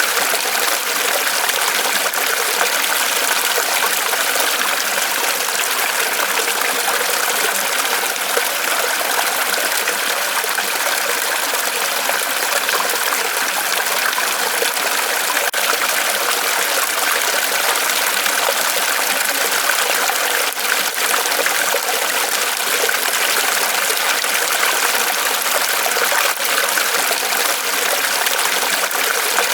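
Small waterfall of water trickling and splashing steadily off a tree trunk, with faint drips and ticks here and there.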